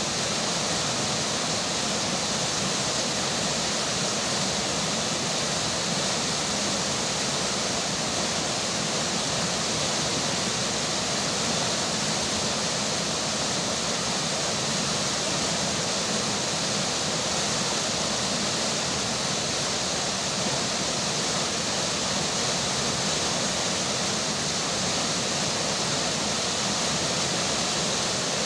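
Flowing river water and falling rain: a steady, even rush of water with no breaks.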